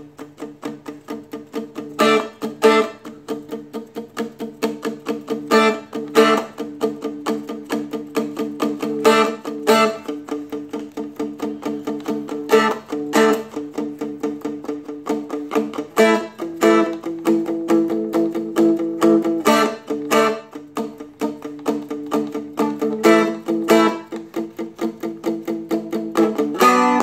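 Seagull Merlin (four-string strumstick) strummed in a steady rhythm in the key of D, its drone strings ringing under each stroke. The chord shifts a little over halfway through and again near the end.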